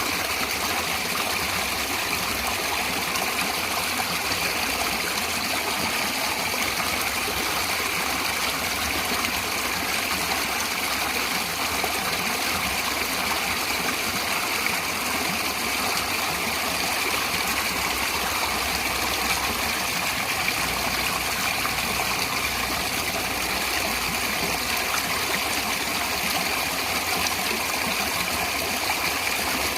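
Natural running water, a steady, even rush with no breaks.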